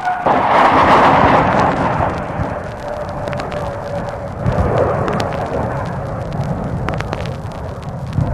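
A large ground explosion from an air strike, booming out just after the start and rumbling on, with a second swell about halfway through; the falling drone of an aircraft passing overhead fades into it at the start. Vinyl record crackle and pops run throughout.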